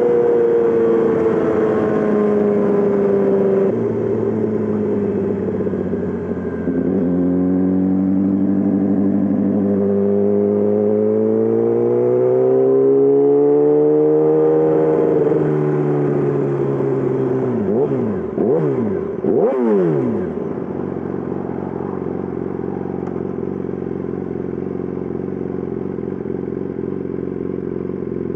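2020 Yamaha R6's inline-four engine through a full M4 exhaust, riding: the revs fall, a gear change comes a few seconds in, then the revs rise and fall again. A little past halfway come two quick throttle blips, after which the engine settles into a steady, lower run.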